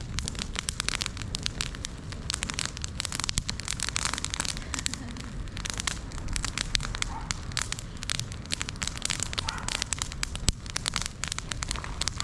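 A heap of dry araucaria grimpa (needle-covered branch tips) burning in a big open blaze, with dense, rapid crackling and popping and a sharper pop about ten and a half seconds in.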